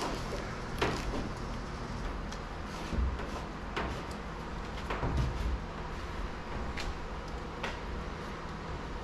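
A few scattered light knocks and clicks, about six over several seconds, over a low steady background hum.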